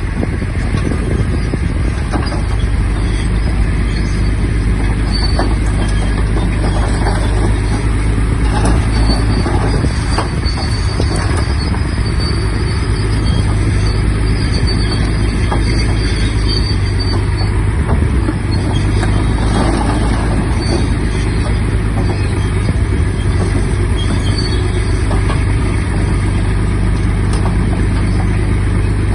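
Shantui DH17-C3 bulldozer's diesel engine running steadily with a deep low drone, and a faint high squeal coming and going above it.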